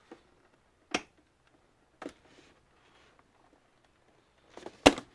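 Sharp clicks and knocks of parts and tools being handled while an all-in-one computer is taken apart: four short ones about a second apart, the loudest a double knock near the end.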